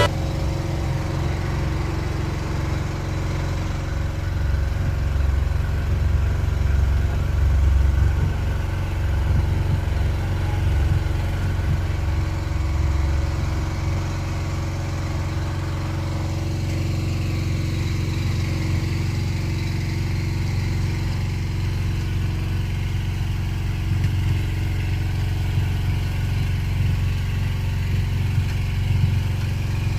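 A steady low engine hum, like a motor vehicle running at idle.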